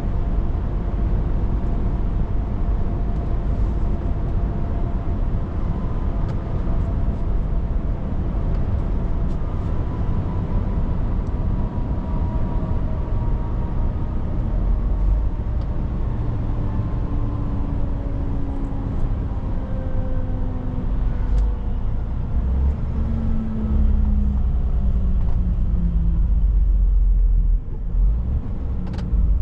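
Scania S500 truck's diesel engine and road noise heard in the cab, the engine note falling slowly as the truck slows. Near the end the level briefly drops and there are a few clicks.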